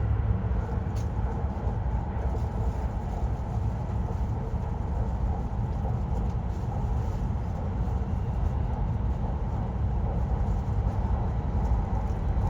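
Shinkansen train running, heard from inside the passenger cabin: a steady low rumble with an even hiss of running noise above it.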